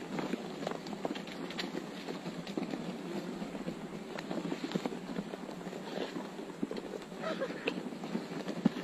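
A crowd of vultures scuffling and flapping at a feeding: many small irregular knocks, rustles and wingbeats, with a few brief calls near the end.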